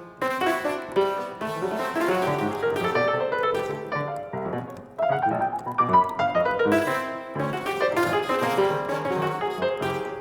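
Solo piano playing dense flurries of struck notes and chords, with a brief lull about five seconds in before the playing picks up again.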